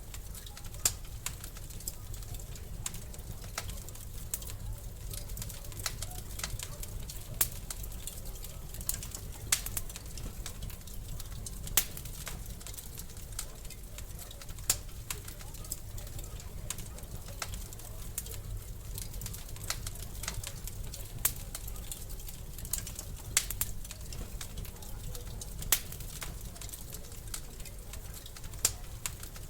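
Wood fire burning in a fireplace: a steady low rumble of flames with irregular sharp crackles and pops, a louder pop every second or two.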